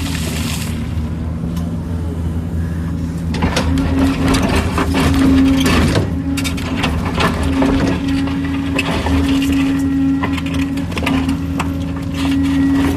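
Kobelco excavator's diesel engine running steadily under load, with many short knocks and scrapes, like rock and soil on the bucket, from about three and a half seconds in.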